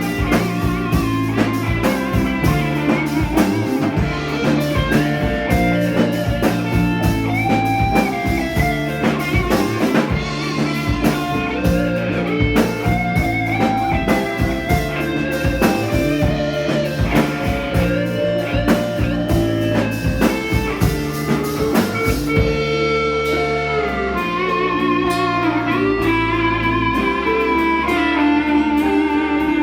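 Folk-rock band playing an instrumental passage live: guitar over a drum kit. About two-thirds of the way through, the drumming drops away and long held, wavering melody notes carry on.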